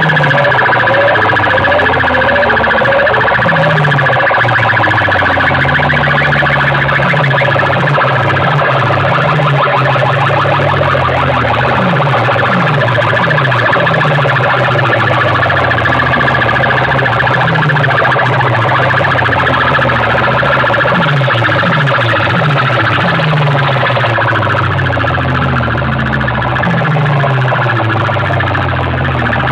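DJ sound system playing electronic siren-like effect tones at high volume, with repeated falling pitch sweeps over heavy stepping bass notes.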